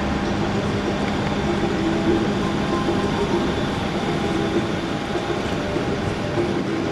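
Manchester Metrolink tram running with a steady electric hum over a constant bed of city traffic noise.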